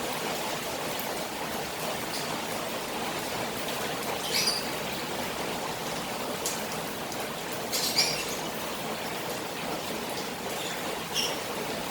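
Rain falling on a koi pond, with running water: a steady, even hiss. A few short, high bird chirps stand out, about four times.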